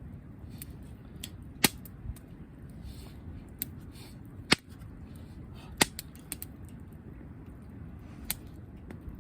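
Wood campfire crackling: irregular sharp pops and snaps of burning firewood, four of them much louder than the rest, over a low steady rush.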